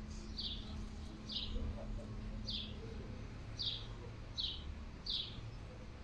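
A small songbird repeating a short, high chirp about once a second, six times.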